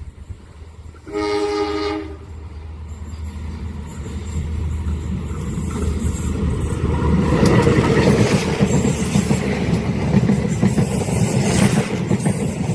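A train's horn sounds one blast of about a second, about a second in, then the train approaches and passes, its rumble of wheels on rails growing steadily louder and staying loud through the rest.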